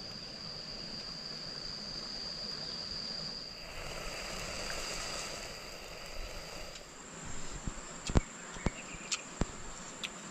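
Insects singing with a steady high-pitched whine. About seven seconds in it gives way to a second, higher whine. Near the end come a few sharp snaps or knocks.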